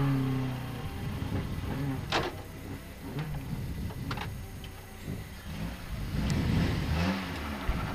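Lada 2107 rally car's engine running at low revs, heard from inside the cabin, with two sharp knocks about two and four seconds in and the revs rising briefly near the end.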